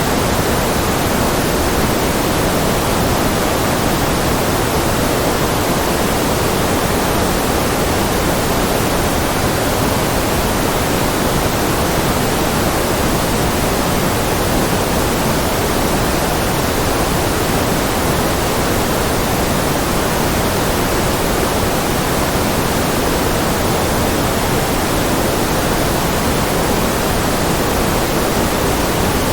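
Steady generated noise ('ruido blanco'), an even, unchanging hiss that is fuller in the low and middle range than in the highs.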